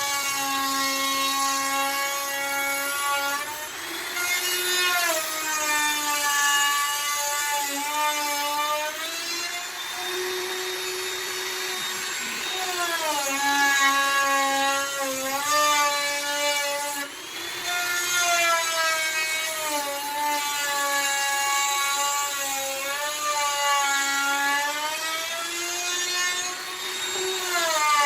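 Handheld electric router cutting into a wooden door with a continuous high-pitched motor whine. The pitch sags each time the bit bites into the wood and climbs back when the load eases, several times over.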